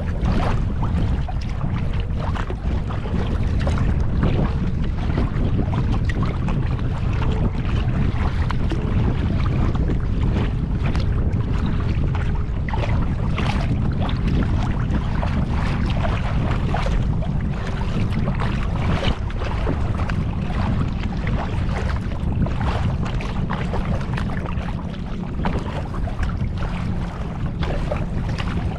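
Wind rumbling on the microphone while a kayak is paddled, with frequent small, irregular splashes and drips of water from the paddle.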